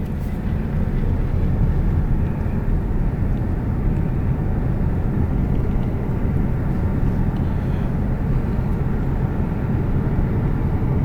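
A car driving slowly, with a steady low rumble of road and engine noise.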